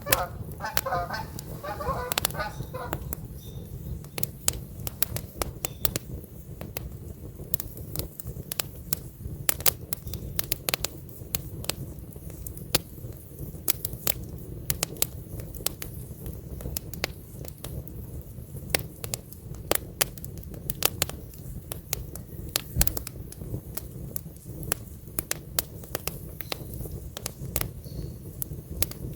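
Wood campfire crackling, with sharp pops and snaps that come irregularly over a steady low rumble. A bird calls in the first few seconds.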